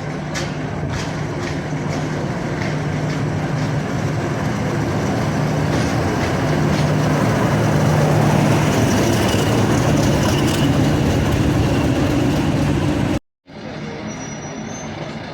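Diesel train running with a steady engine hum, growing louder over the first several seconds and holding there. Near the end it cuts off abruptly and comes back quieter.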